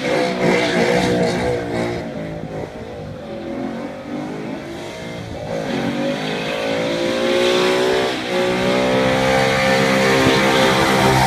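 2014 Ford Mustang GT's 5.0-litre V8 revving hard through a burnout, its rear tyres spinning and smoking. The engine note rises and falls, dips for a couple of seconds, then climbs and holds high near the end.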